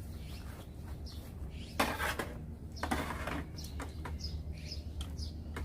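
Two brief bursts of clatter and scraping from handling a pot and eating utensils, about two and three seconds in, over small birds chirping repeatedly throughout.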